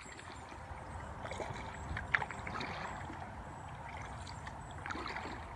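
Kayak paddle strokes splashing and dripping water, with a sharp knock about two seconds in.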